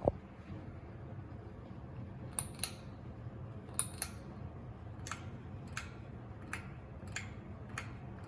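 Hampton Bay Huntington III ceiling fan running with a steady low hum, overlaid by sharp clicks: a thump at the start, two double clicks, then a regular tick about three times every two seconds.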